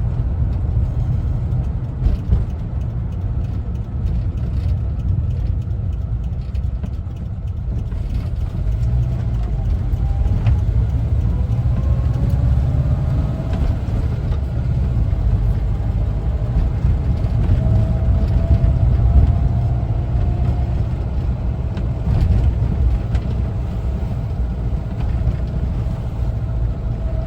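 1974 Volkswagen Westfalia camper's air-cooled engine and road noise while driving: a deep, steady rumble. About ten seconds in, a faint whine rises in pitch, then holds at a steady tone.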